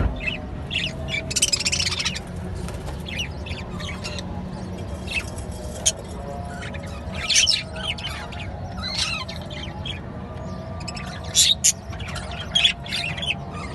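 A colony of budgerigars chirping and chattering, many short irregular calls overlapping, with louder bursts of calls about a third of the way in and again near the end, over a steady low hum.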